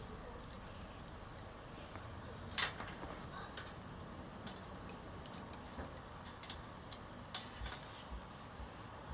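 Small wood fire crackling, with irregular sharp pops scattered through, the loudest about two and a half seconds in.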